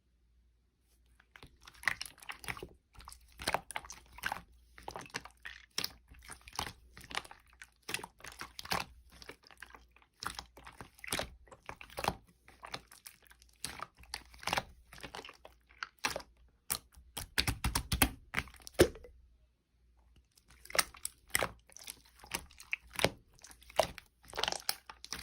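Close, dense crunching and crinkling: a quick irregular run of small crackles and taps, pausing for about a second and a half about three quarters of the way through before starting again.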